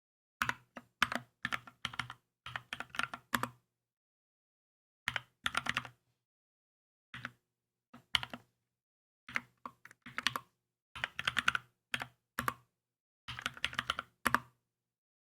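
Typing on a Keychron K2 mechanical keyboard: quick runs of keystrokes in irregular bursts with short pauses between them, stopping shortly before the end.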